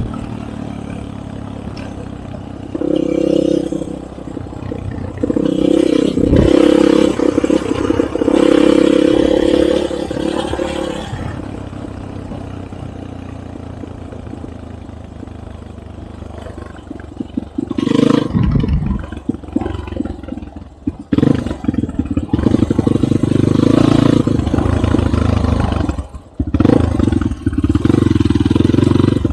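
Enduro motorcycle engine running hard off-road, revving up in repeated surges and dropping back, with a quieter low-revving stretch in the middle.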